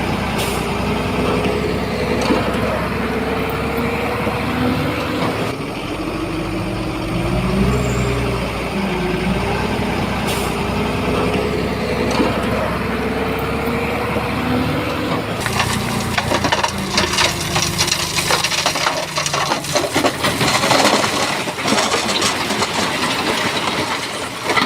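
A heavy diesel engine runs under load, its tone wavering up and down. About two-thirds of the way in, a dense clatter of stones grinding and tumbling takes over.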